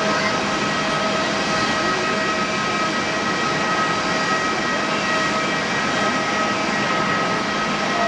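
Airbus A330-300 jet airliner's engines running steadily: a constant rushing noise with a steady high whine.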